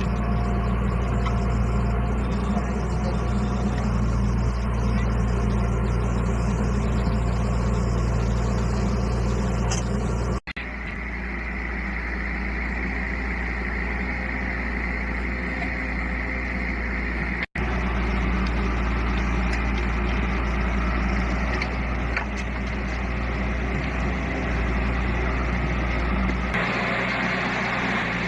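Heavy diesel engine running steadily under load with a deep, even hum. The sound breaks off abruptly twice, about ten and seventeen seconds in, and picks up again each time with a slightly different tone.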